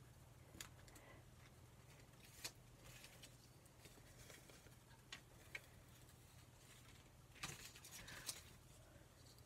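Near silence with a few faint taps and light paper rustles from postage stamps being handled, with a short cluster of rustling near the end.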